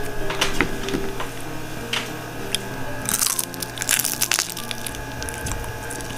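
Crispy fried chicken wing being torn apart by hand and then bitten and chewed: a series of sharp crackling crunches, densest about three to four and a half seconds in.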